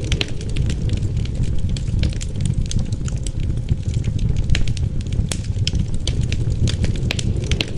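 Wood fire crackling, with many sharp irregular pops and snaps over a steady low rumble of wind.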